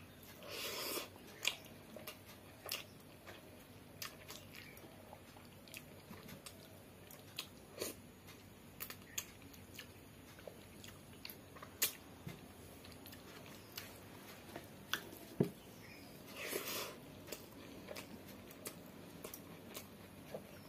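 Close-miked eating sounds of a person chewing rice and dalma eaten by hand, with scattered sharp mouth clicks and smacks. Two short louder noisy spells, about a second in and about three-quarters of the way through.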